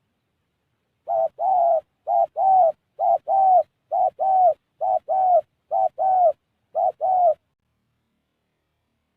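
Spotted dove cooing: eight paired calls, each a short note followed by a longer, slightly falling one, repeated about every 0.9 s from a second in until about seven seconds.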